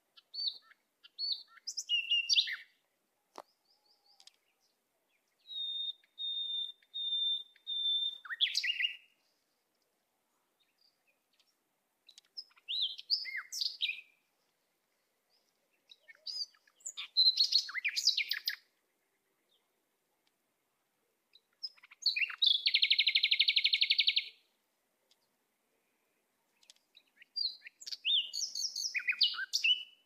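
Songbirds singing and chirping in short bursts separated by pauses of a few seconds. One burst is a run of even, repeated whistled notes, and one about two-thirds through is a loud, buzzy rattling call.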